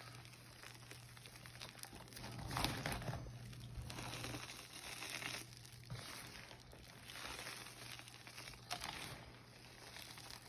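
Block of gym chalk being crushed and crumbled into powder: dry crunching and crumbling in repeated waves about every one to two seconds.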